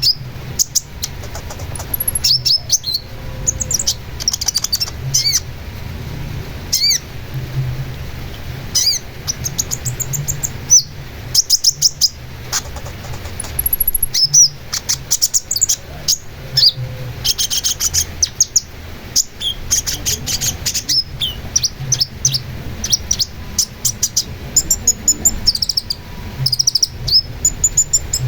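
Long-tailed shrike (cendet) singing a fast, varied song of sharp chirps, short whistles and rapid trilled runs with brief gaps, over a low background rumble.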